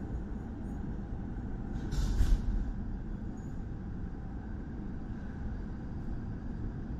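Standing MTR M-Train electric multiple unit heard from inside a car: a steady low rumble from its onboard equipment. About two seconds in comes a short, loud burst of hissing air.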